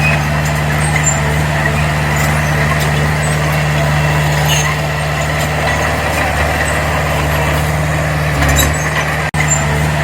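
Diesel engine of heavy earthmoving machinery running steadily under a continuous low hum, with a brief dropout about nine seconds in.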